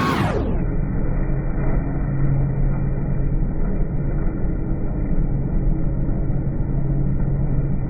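Tractor engine running steadily with a low rumble; about half a second in the top end falls away and it goes on sounding muffled.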